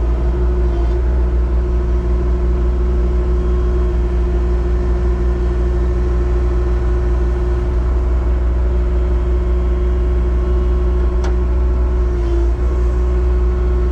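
Engine running at a steady speed with a constant whine above its hum, and one sharp click about eleven seconds in.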